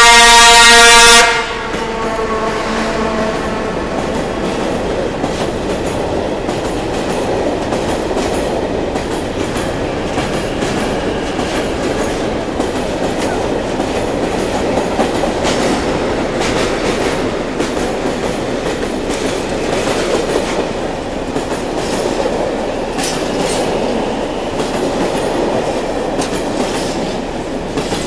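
ČD class 130 electric locomotive sounding its horn in one loud blast that cuts off about a second in. A long train of freight wagons then rolls steadily past close by, wheels clicking over the rail joints.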